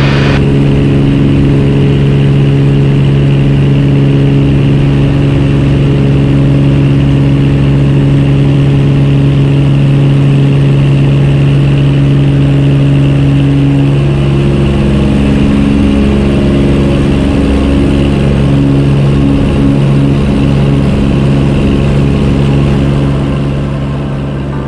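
Cessna 210K's six-cylinder piston engine and propeller running at takeoff power, heard from inside the cockpit as a loud, steady drone. About halfway through, some of the tones shift and waver, and the sound fades slightly near the end.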